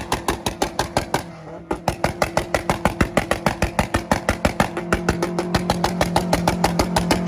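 A tuned car engine held on a two-step launch-control rev limiter, popping and banging from the exhaust in a fast, even rhythm of about eight bangs a second. It falters briefly about one and a half seconds in, then picks back up.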